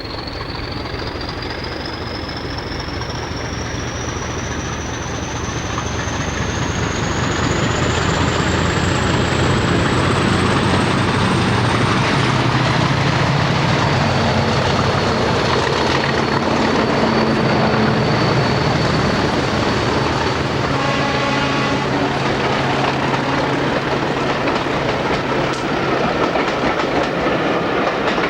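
Diesel-hauled train running past, its engine note and the clicking of wheels over rail joints growing louder over the first several seconds and then holding. A high whine climbs steadily in pitch over roughly the first twelve seconds.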